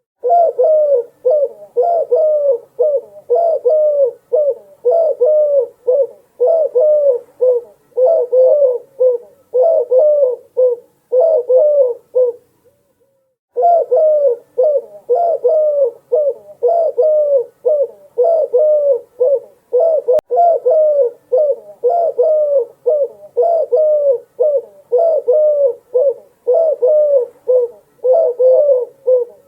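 Dove cooing: low, repeated coos, about one and a half a second, with a short pause about twelve seconds in.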